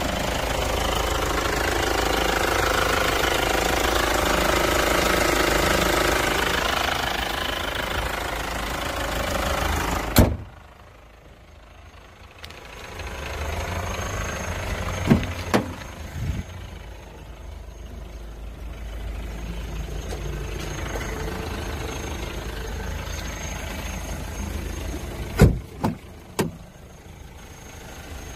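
The Hyundai Santa Fe's engine idles steadily, loud and close, for about ten seconds. A sharp bang follows, after which the engine sound is much quieter and more muffled. A few sharp clicks and knocks come later, two near the middle and three near the end.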